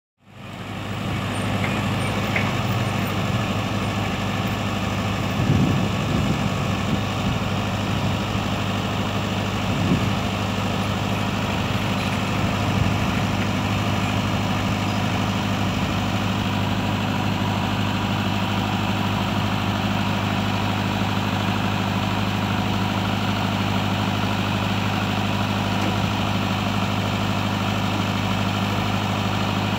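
Heavy diesel engine idling steadily, with a few brief louder knocks about 5, 10 and 13 seconds in.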